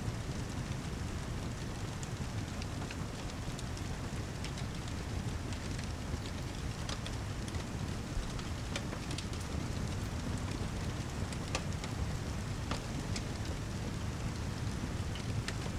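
Steady heavy rain with a deep low rumble, mixed with scattered sharp crackles and pops from a fireplace.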